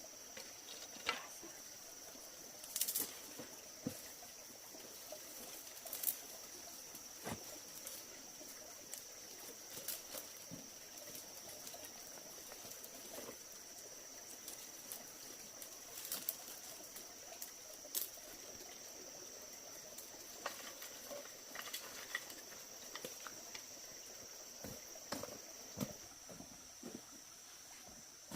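Insects buzzing steadily at a high pitch, with scattered light clicks and knocks throughout.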